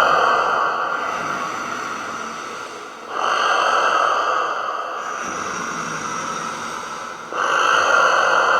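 Dragon breath sound effect: long, heavy, hissing exhalations. A new breath starts sharply about three seconds in and another near the end, and each fades out slowly.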